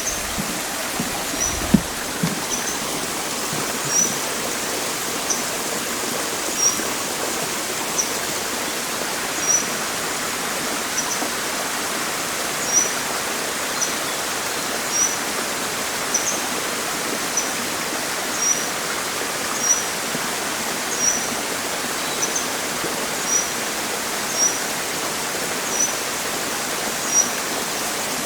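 Steady rushing of running water, with a bird repeating a short high call about once a second.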